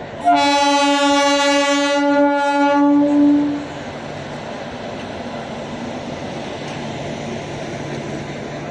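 Train horn sounding one long steady blast of about three seconds, then the train's steady running rumble.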